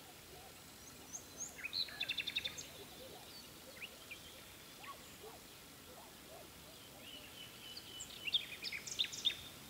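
Small bird singing: a quick run of high chirps about two seconds in and another burst of chirping phrases near the end, with scattered single calls between, over a steady faint background hiss.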